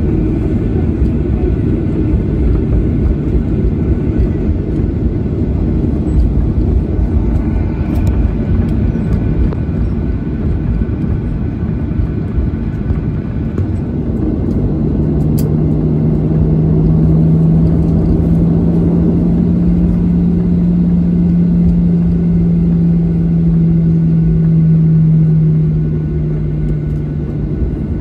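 Boeing 737-800 heard from inside the cabin: a steady low rumble of its CFM56 engines and airframe. About halfway in, a steady hum joins the rumble for roughly twelve seconds, then drops out near the end.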